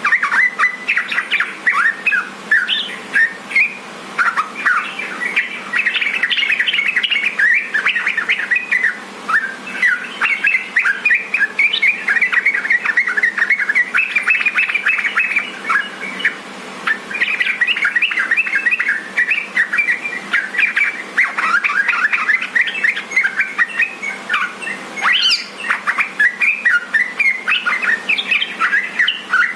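Yellow-vented bulbul (trucukan) song: an unbroken run of quick, bubbly chirps and chattering notes. It is played as a tutor recording to call other bulbuls and set them singing.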